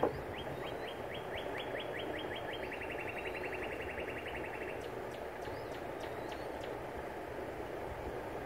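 A songbird singing one song of short, high, down-slurred notes that start slowly and speed up into a fast trill, lasting about four seconds. A few faint clicks follow.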